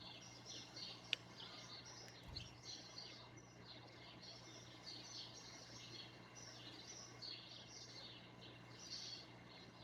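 Small birds chirping continuously in a busy, overlapping chatter of short calls, over a faint steady low hum; a single sharp click about a second in.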